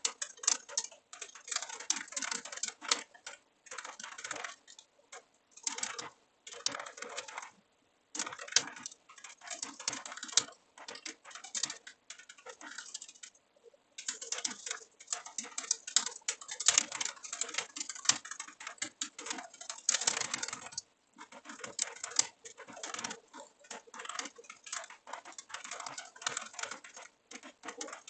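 Computer keyboard typing: rapid key clicks in bursts of several seconds, with short pauses of about a second between bursts.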